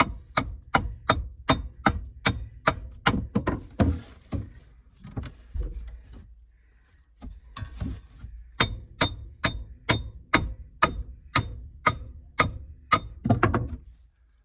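A hand hammer striking repeatedly, about three blows a second, in two runs separated by a pause of a few seconds.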